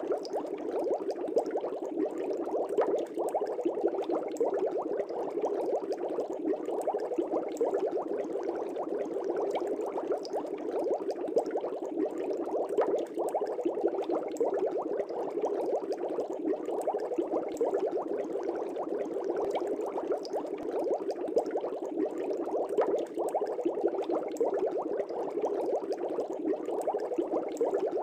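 Aquarium water bubbling steadily: a dense, unbroken stream of small bubbles gurgling and popping in the fish tank.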